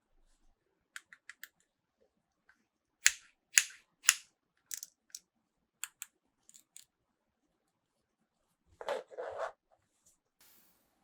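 Sharp clicks and taps of small plastic toy pieces and packaging being handled: three loud clicks about half a second apart around three to four seconds in, a run of lighter clicks after, then a brief rustle about nine seconds in.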